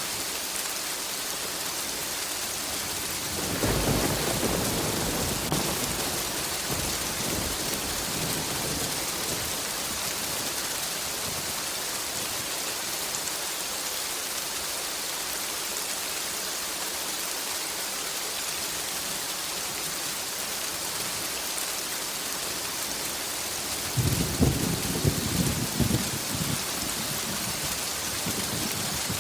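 Steady rain with thunder: a low rumble rolls in about three and a half seconds in and fades over several seconds, and a louder, crackling peal comes near the end.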